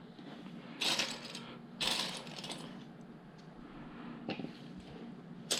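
Loose plastic LEGO pieces rattling and clicking as a hand rummages through them. There are two short bursts of clatter in the first half, then a couple of lighter clicks.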